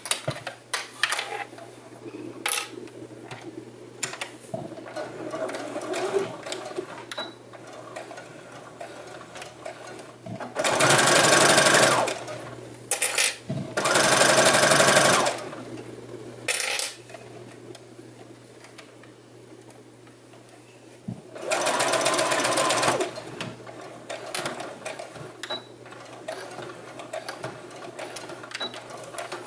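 Domestic sewing machine stitching in three short runs of about a second and a half each, with small clicks and taps of handling between the runs.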